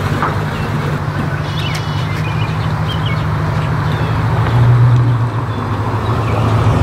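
V8 car engines running at low speed as cars drive past, with a steady low note that grows louder about four and a half seconds in as one passes close.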